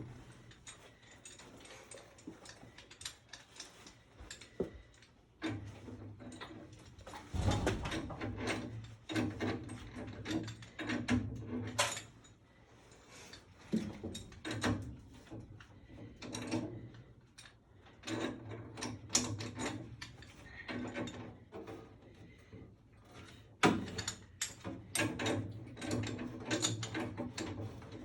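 Work on a furnace install: repeated clicking and metal rattling of tools and parts, with several short bursts of a small motor a few seconds apart.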